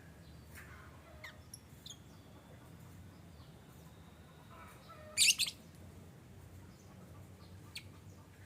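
Lovebirds giving short high chirps now and then, with one much louder double call about five seconds in.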